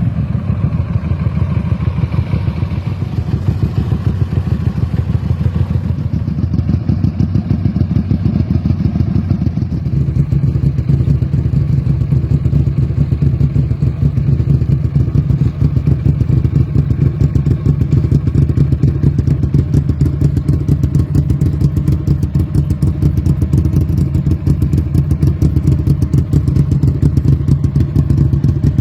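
Keeway Benda V252C's 250 cc V-twin running at a steady idle through a custom 2-into-1 exhaust, a loud, even stream of rapid exhaust pulses. About ten seconds in, the low note becomes fuller and steadier.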